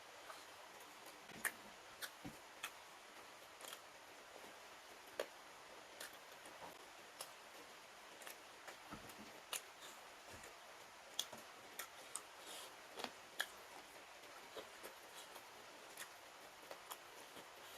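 Faint, close-miked eating: scattered, irregular sharp clicks and smacks from chewing, a few louder than the rest, over a steady low hiss.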